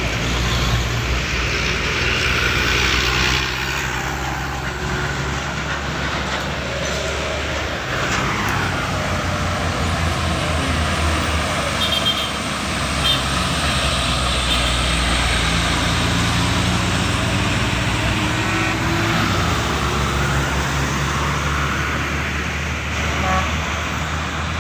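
Heavy diesel trucks passing on a hill road, their engines running under load, rising and falling in pitch as they go by.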